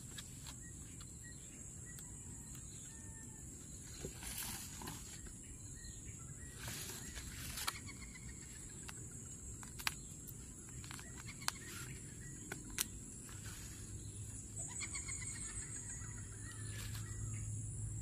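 A bird calling in descending runs of quick notes, once about seven seconds in and again from about fourteen seconds, over a steady high insect-like hum. Light clicks and rustles come from hands handling plants and soil.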